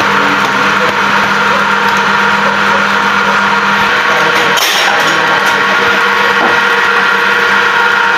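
A machine running steadily with a constant hum, its sound briefly changing about four and a half seconds in.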